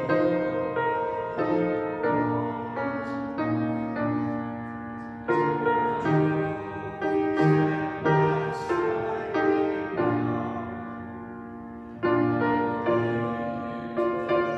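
Piano playing slow chords in phrases, each chord struck and then dying away. Near the middle a phrase ends on a held chord that fades out before the next phrase begins.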